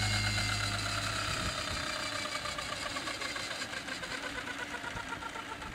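Electric RC helicopter's motor and rotor winding down, a whine whose pitch slowly falls while it fades. A low steady hum ends about a second in.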